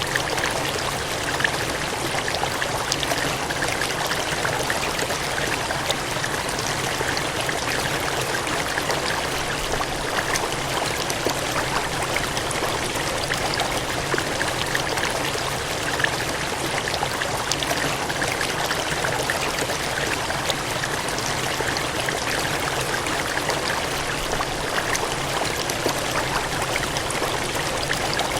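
Water gushing and cascading in a steady, continuous rush, with small splashes flickering through it.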